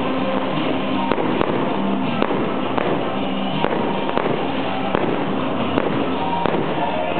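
Fireworks going off in a rapid, irregular series of sharp bangs and crackles, over music.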